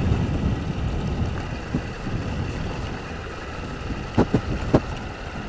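Honda CG 160 Fan motorcycle's single-cylinder engine running on the move, with wind on the helmet microphone. About four seconds in, a quick cluster of three or four sharp knocks: the rattle the rider says still persists after the front fairing clips were tightened.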